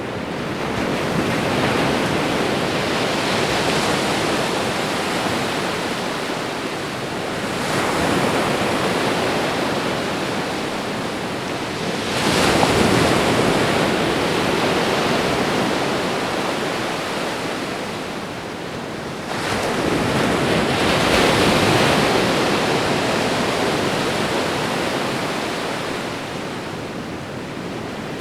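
Ocean waves breaking and washing up a shore, with no other sounds: a steady rush that swells with each new wave, about four surges starting every four to seven seconds, each fading slowly.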